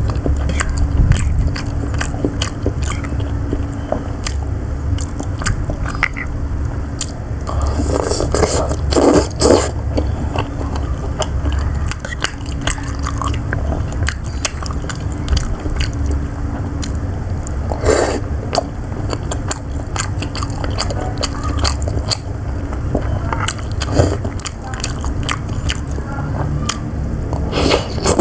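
Close-miked eating of siomay: repeated biting and wet chewing, with a few louder mouth sounds at intervals, over a steady low hum.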